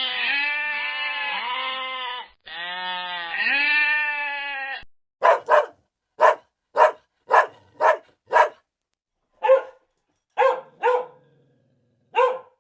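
Two long, wavering bleats, then a dog barking in short sharp barks, about eleven in all, with a few brief pauses between groups.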